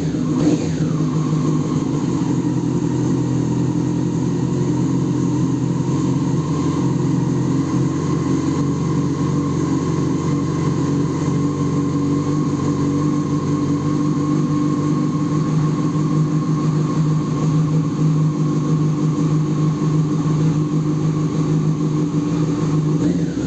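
Yamaha Fazer 600's inline-four engine running through a LeoVince SBK aftermarket exhaust. A brief rev falls back just after the start, then it idles steadily.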